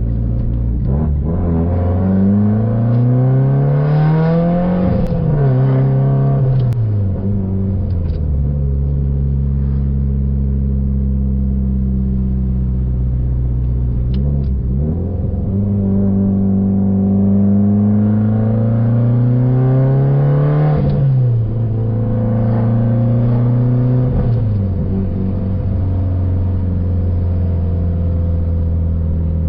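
Lexus IS500's 5.0-litre V8 on the factory exhaust, pulling through the gears: the engine note climbs as the car accelerates and drops at each upshift, four times, with stretches of steady cruising between.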